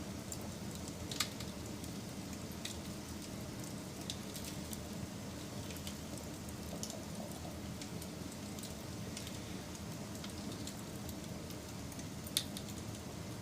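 Wood fire burning with a steady low rush and scattered small crackles. Two sharp pops stand out, one about a second in and one near the end.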